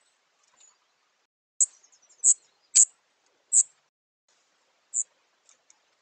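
A wild songbird chirping near a garden-style seed feeder: short, sharp, very high calls, each a quick downward sweep, about five loud ones in a cluster from about one and a half to five seconds in, with a few fainter ones between. The recording plays at double speed, so the calls sound higher and quicker than in life.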